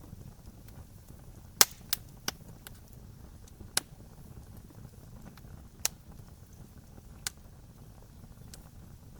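Campfire burning: a steady low rustle of flame broken by about six sharp pops and cracks of burning wood. The loudest pop comes about one and a half seconds in, followed by others over the next six seconds.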